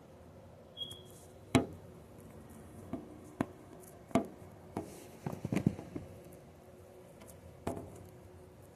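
A scattered series of sharp knocks and clicks, about a dozen, the loudest about a second and a half in and a quick cluster in the middle, with a brief high squeak just before the first loud knock.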